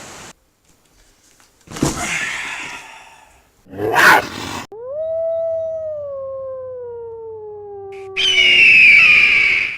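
A run of sound effects: a rushing burst about two seconds in and a sharp loud crash about four seconds in, then one long howl, as from a dog or wolf, falling slowly in pitch. A loud noise with a high screeching tone breaks in near the end.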